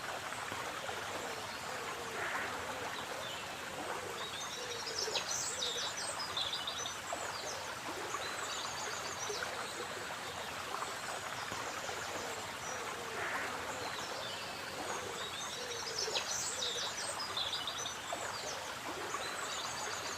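A stream of water flowing in a steady rush, with birds singing over it; a burst of high chirping song comes about five seconds in and again about sixteen seconds in.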